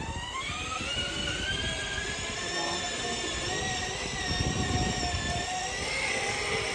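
Battery-powered electric scooter's motor whining, rising in pitch through the first second as it speeds up and then holding a steady pitch, over a low rumble.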